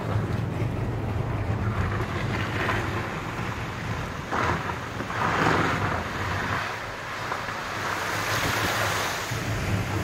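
Wind gusting on the microphone over a low, steady engine hum, with swells of rushing noise a few times.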